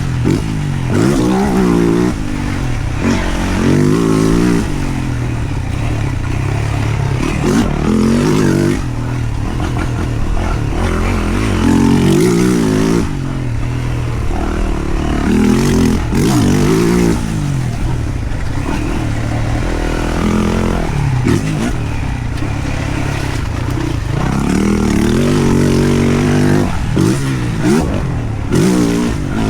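2023 Yamaha YZ450F's single-cylinder four-stroke engine being ridden hard: its pitch climbs as the throttle is opened and falls as it is shut, again and again, every two to four seconds.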